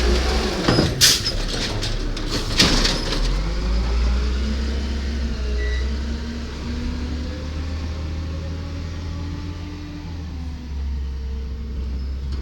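Diesel engine of garbage truck #205 running, with two sharp bangs in the first few seconds. Then the engine pulls away, its pitch rising for a few seconds before levelling off into a steady rumble.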